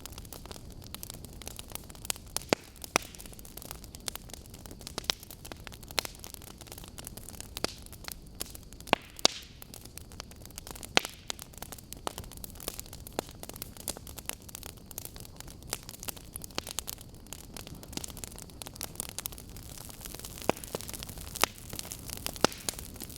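Wood fire burning, burning logs giving irregular sharp crackles and pops, several a second at times, over a steady low rushing hiss.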